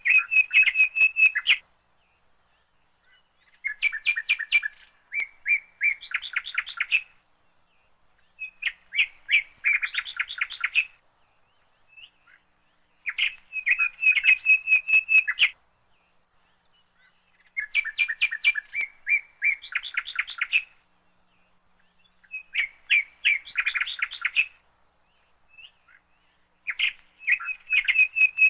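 A songbird singing phrases of rapid chirps and trills, each two to three seconds long, repeated every four to five seconds with short pauses between.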